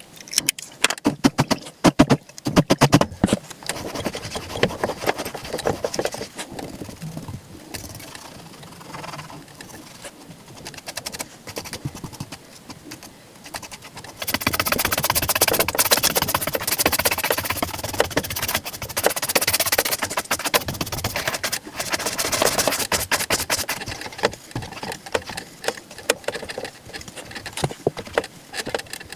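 Shoe-shine work on leather boots with no talking. It opens with a run of sharp taps and clicks, then quieter scratchy rubbing, then fast, brisk brushing strokes that are loudest from about halfway through until near the end.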